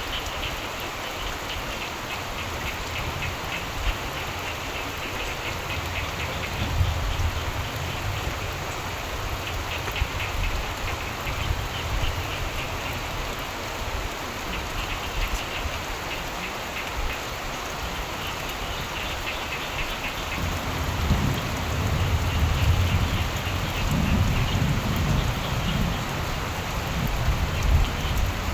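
Steady rain falling, with frogs calling in short, rapidly pulsed bouts that come and go. A low rumble of thunder builds about two-thirds of the way through.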